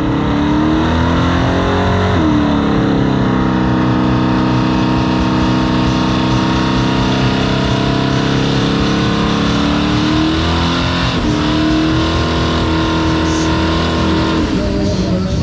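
Chevy drag truck's engine held at high revs during a burnout. The pitch drops about two seconds in, climbs again around eleven seconds, and falls away near the end.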